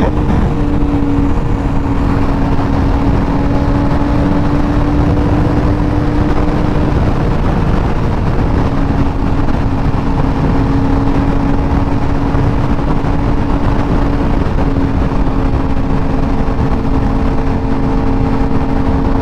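Sportbike engine holding a steady drone at highway cruising speed, under heavy wind rush on a helmet-mounted microphone; the engine note eases off briefly about seven seconds in, then settles again.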